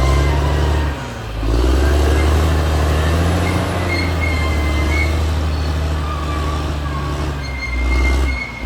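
Caterpillar D6R XL bulldozer's diesel engine running under load, its pitch dropping briefly about a second in and again near the end, with thin high squeals from the steel tracks.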